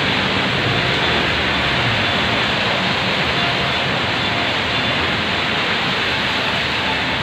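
Heavy rain pouring down: a steady, dense hiss with no letup.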